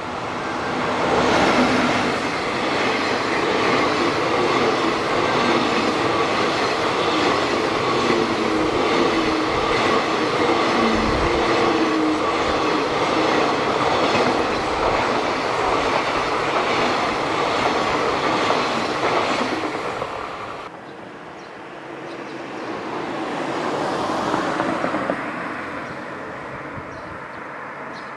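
Freight train passing close by, its wheels clattering over the rails with a steady whine on top. About twenty seconds in the sound cuts off abruptly, and a quieter passing swells and fades away.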